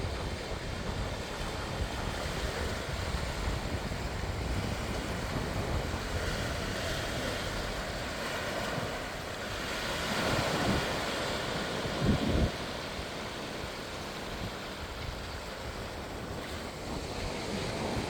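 Sea waves washing onto a beach, with wind rumbling on the microphone. A wave swells up about ten seconds in, and a brief low thump comes about two seconds later.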